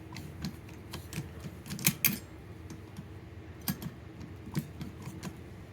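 Light, irregular clicks and taps of small tools and metal parts being handled during a wood stove fan repair, with two sharper clicks about two seconds in.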